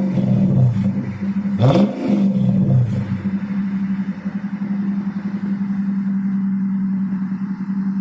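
Lexus IS-F's 5.0-litre V8, running with no catalytic converters and no muffler, revved once in a quick blip about two seconds in, then settling back to a steady idle.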